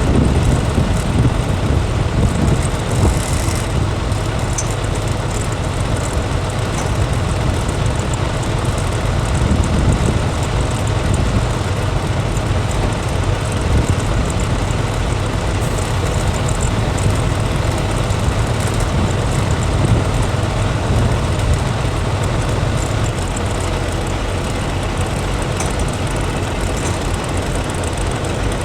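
Heavy truck on the move: a steady low engine drone with road noise that stays even throughout.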